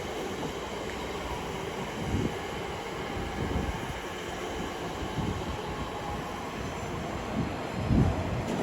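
Elizabeth line Class 345 electric train at the platform, giving a steady train noise, with a few low thumps about two seconds in and near the end.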